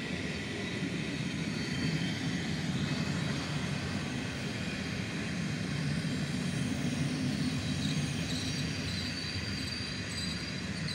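Passenger train coaches rolling along, with a steady low rumble of wheels on rails. A faint high squeal comes in near the end.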